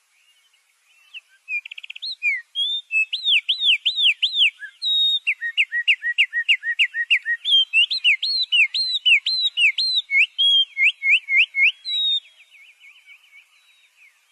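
A songbird singing a fast, varied song of sweeping whistled notes that rise and fall. It starts with a brief trill, runs on for about ten seconds, and tails off into a few faint notes near the end.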